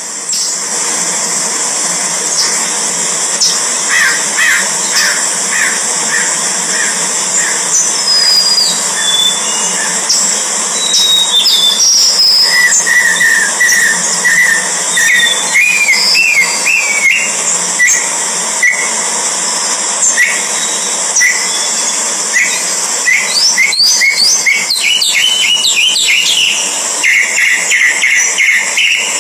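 Birds calling: runs of short repeated chirps and quick whistled glides that rise and fall, over a steady high hiss.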